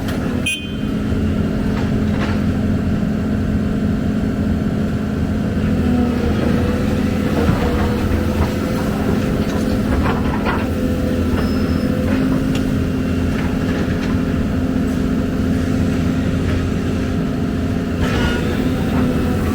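Heavy diesel engine of an excavator running steadily at working revs, with a few short knocks.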